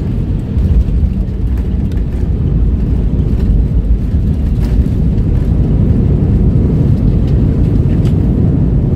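Airbus A320 cabin noise during landing: a loud, steady low rumble of the engines and airflow, heard from inside the cabin.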